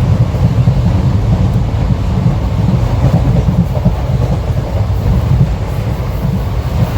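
Passenger train on the move: a loud, steady rumble with most of its weight at the low end.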